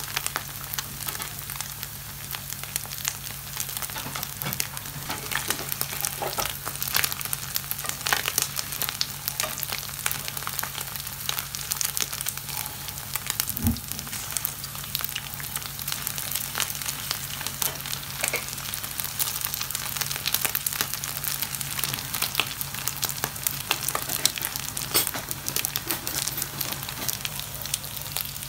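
Salmon skin frying in hot oil in a stainless steel pan: a steady sizzle thick with small crackles and pops as the skins brown and crisp. A low steady hum sits underneath, and a single dull knock comes about halfway through.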